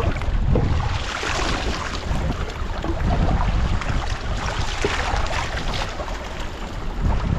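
Wind buffeting the microphone: a gusting rumble with a rushing hiss over it.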